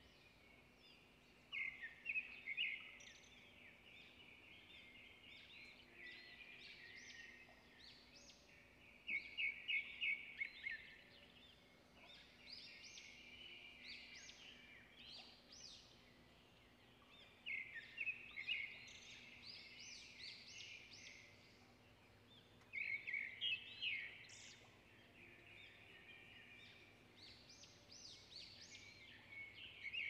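Forest birdsong: loud bursts of rapid, chirping trills come about five times, every six to eight seconds, with quieter bird calls between them.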